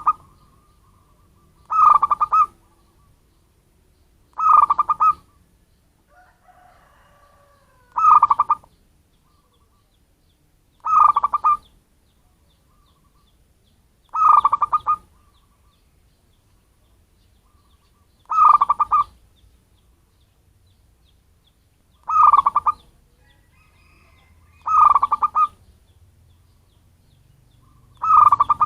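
Zebra dove (perkutut) cooing: the same short, rapidly pulsed coo is repeated about every three to four seconds, some nine times. It is a local wild-type bird's call used as a lure call to attract wild doves.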